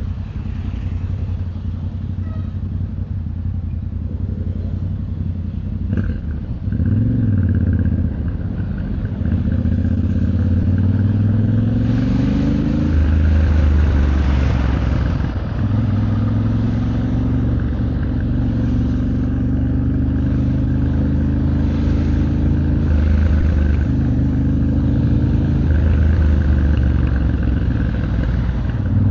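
Yamaha Ténéré 700's parallel-twin engine under way, its pitch climbing and then dropping again and again as the bike accelerates and shifts up, with a quick rev and fall about seven seconds in. Road and wind noise run underneath.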